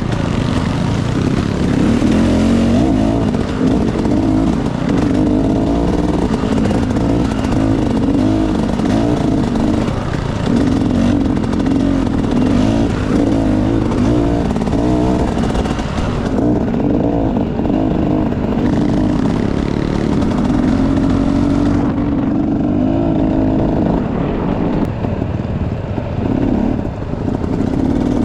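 Enduro dirt bike engine running under a rider's throttle, its pitch rising and falling with the revs.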